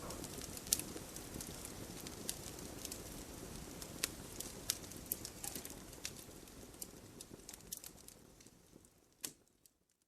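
Campfire burning with a low rush and frequent sharp crackles and pops from the burning wood. It fades away over the last couple of seconds, with one last pop near the end.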